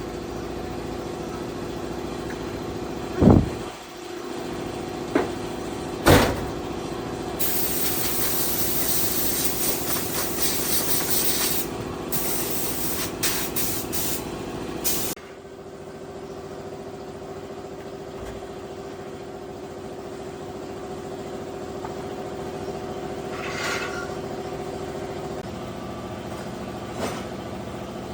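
A steady mechanical hum throughout, with two sharp knocks a few seconds in. In the middle, a loud hiss of air or spray lasts about seven seconds and stops suddenly, after which the hum goes on more quietly.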